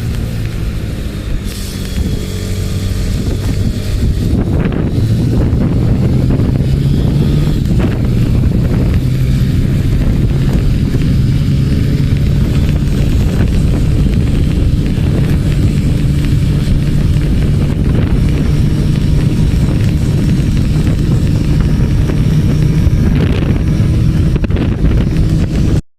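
Motorcycle engine running while riding at speed, with wind rushing over the microphone. The engine note rises about five seconds in, then holds steady.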